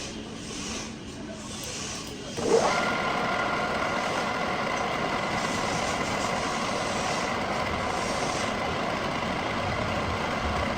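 Metal lathe in a machine shop starting up about two and a half seconds in with a sudden rise, then running steadily with a faint whine.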